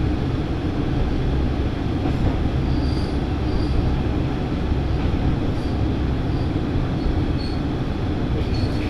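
Running noise of a single diesel railcar heard from on board: a steady low rumble of the engine and wheels on the rails, with brief faint high squeaks now and then.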